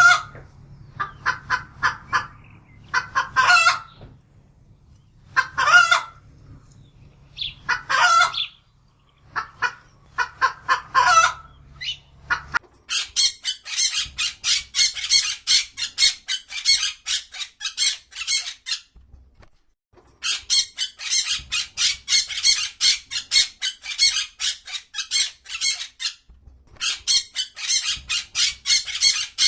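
Chickens clucking, one call every second or two over a low steady hum. About 13 seconds in this gives way to rapid high-pitched bird chirping, several chirps a second, in long runs with short breaks.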